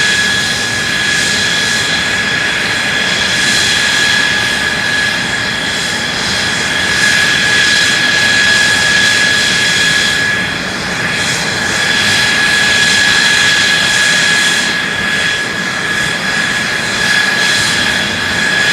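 F-2 fighter's General Electric F110 turbofan jet engine running on the ground, a loud steady rush with a steady high-pitched whine over it.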